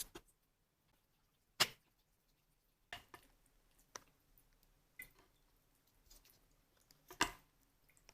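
A handful of sharp, irregular clicks and taps, about six in eight seconds, the loudest about one and a half seconds in and near the end, with little between them.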